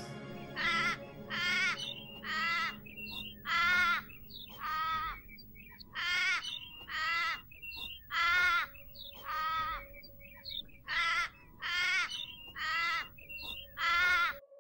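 A bird calling over and over: about fourteen short, harsh calls, one or two a second, with a wavering pitch in each.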